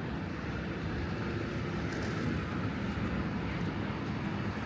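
City road traffic: a steady low rumble of passing vehicles with no single event standing out.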